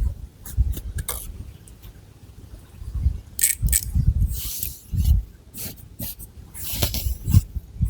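Long fingernails scratching the scalp and moving through thick hair, close to the microphone. Irregular dry scratching strokes come over a low rubbing sound.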